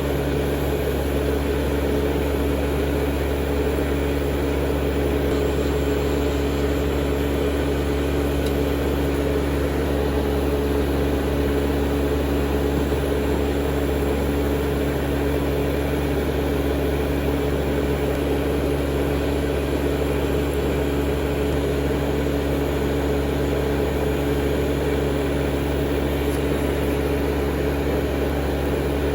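Steady whir of small electric motors at a manicure table, a nail e-file and its dust-collector fan, running at a constant speed: two even tones over a low hum with no change.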